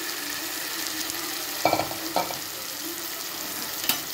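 Raw chicken pieces sizzling in hot oil with fried onions and tomato in a non-stick kadai, a steady frying hiss with a low hum underneath. There are a few light knocks, about one and a half seconds in, shortly after, and near the end.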